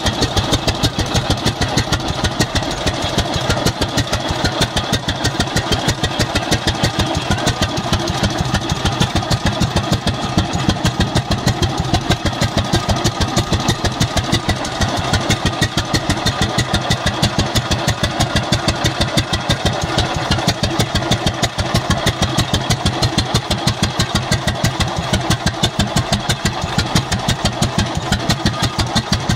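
The twin-cylinder engine of a 1916 International Titan 10-20 tractor runs steadily at idle, with an even, rapid chugging beat.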